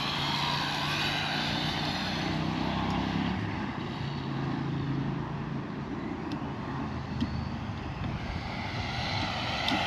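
ZD Racing RX12 radio-controlled rally car driving, its electric motor and drivetrain whining over tyre noise on the ground. A faint steady hum sits under the noise for the first few seconds, and the sound grows near the end as the car comes closer.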